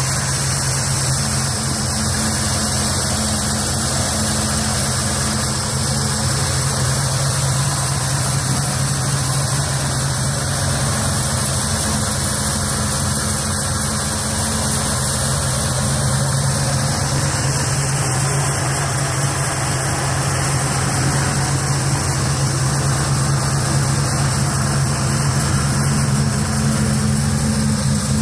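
Engine of a 1955 Chevrolet pickup truck idling steadily.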